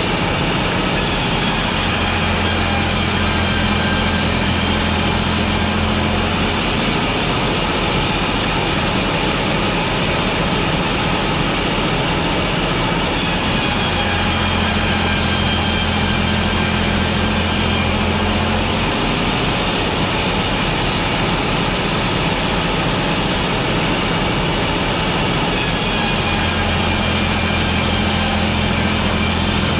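Sawmill machinery running continuously while cutting slab boards from logs, with a repeating cycle about every 12 seconds in which a low hum and a brighter, higher sound swell for around five seconds and then drop back.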